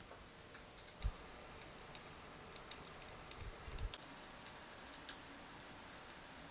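Faint scattered light clicks and ticks, with a soft low thump about a second in and a few more low knocks a little past the middle.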